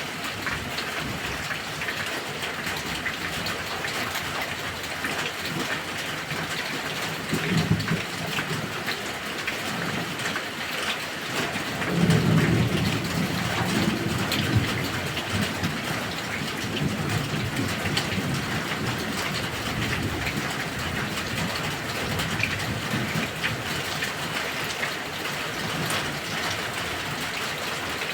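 Heavy rain falling steadily, with low thunder rumbling about seven seconds in and a louder roll of thunder about twelve seconds in that fades over a few seconds.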